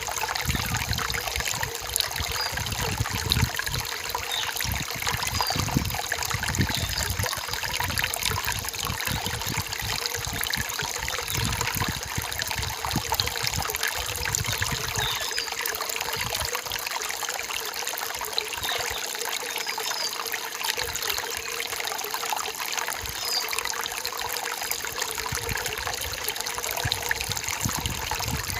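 Rain-forest stream trickling and splashing steadily, with a short high bird chirp every few seconds.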